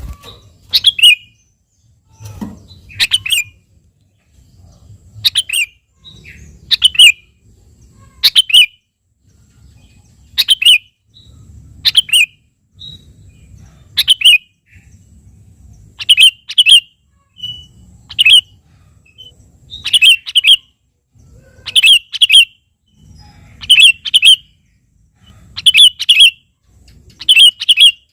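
Sooty-headed bulbul (kutilang) calling vigorously: short, bright, falling call notes repeated every second or two, often in quick pairs. A faint low rumble runs underneath.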